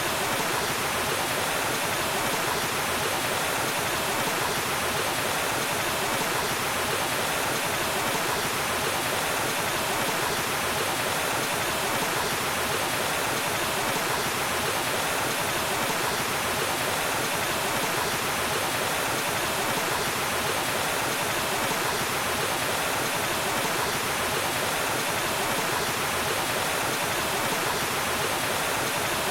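Waterfall: water falling and rushing in a steady, even roar with no change.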